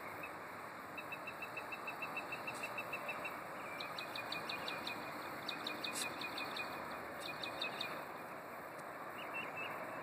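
A bird repeating a rapid run of short, evenly spaced notes, about eight a second, in several runs with short breaks, over a steady background hiss.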